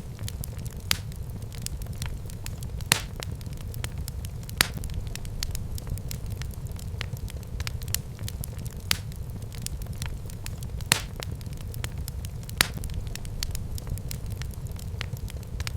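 Fire burning in a fireplace, crackling, with a sharp pop every second or two over a steady low rumble of the flames.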